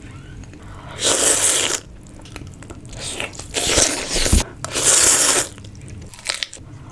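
Close-miked crunching bites of food, in four or five bursts of up to about a second each with short pauses between.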